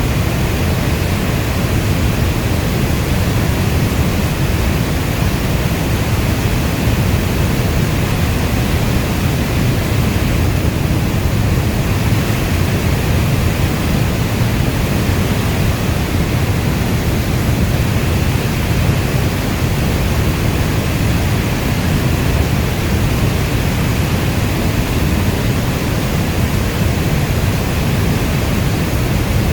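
Steady rain, an even, dense hiss weighted towards a deep low rumble, with no single drops or thunder standing out.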